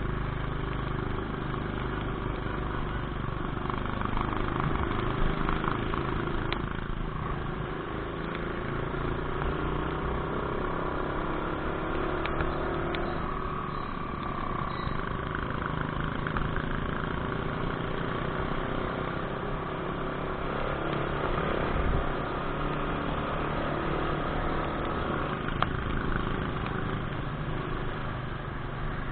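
Motorcycle engine running steadily on the move, with its note climbing for a few seconds and then dropping back a little before halfway.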